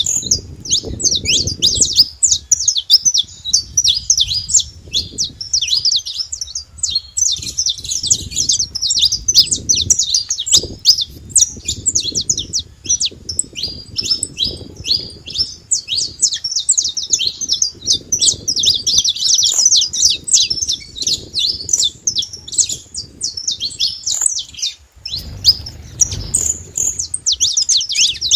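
Saffron finches singing: a dense, unbroken run of quick, high chirps, with a low rumble underneath at times.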